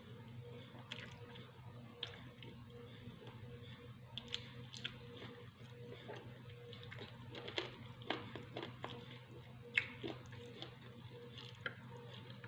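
Faint eating sounds: chewing and wet mouth clicks, with scattered sharp clicks, the loudest about ten seconds in, over a steady low hum.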